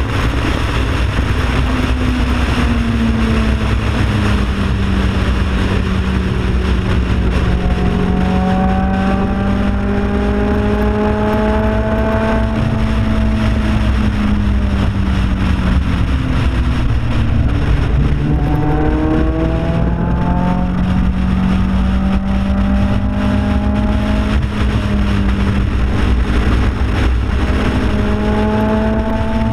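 Track car's engine pulling under load at speed, its pitch climbing slowly for several seconds, falling away about halfway through as the car slows, then rising quickly again. Heavy wind rush over the car-mounted camera underlies it.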